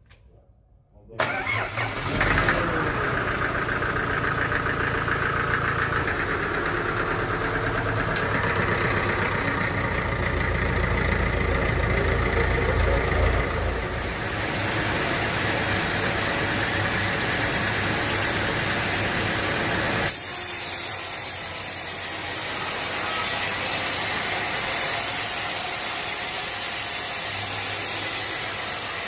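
An engine starts suddenly about a second in, its pitch rising as it comes up to speed, then runs steadily. About twenty seconds in its sound changes to a noisier, hissing run with less low rumble.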